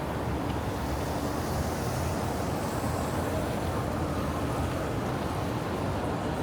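Steady city street traffic noise: a continuous low rumble of passing vehicles with an even hiss over it.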